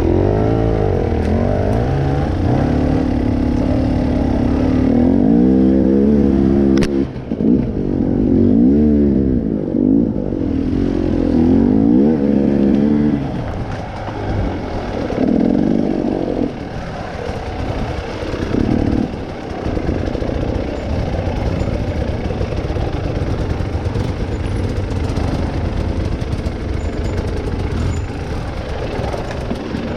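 Trail motorcycle engine revving up and down repeatedly, its pitch rising and falling, then settling to lower, steadier running from about halfway through.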